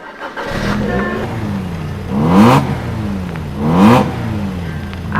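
Car engine revved in short blips over a steady low drone. The pitch sweeps sharply upward three times, about a second and a half apart.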